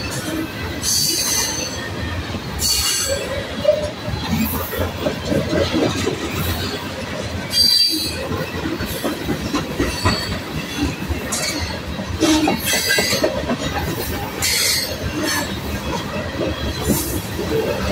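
A long freight train of covered hopper cars rolling past: a steady rumble of steel wheels on rail, broken every few seconds by brief high-pitched wheel squeals.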